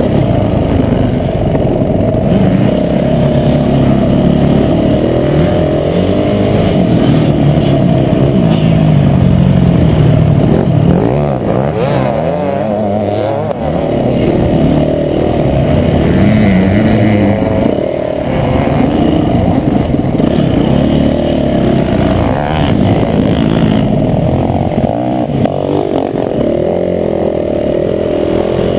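Motocross bike engine revving hard, its pitch rising and falling continuously as it is ridden around the track.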